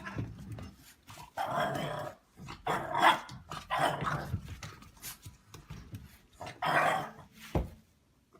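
A dog growling and barking in a run of short, rough bursts, with a few sharp clicks between them.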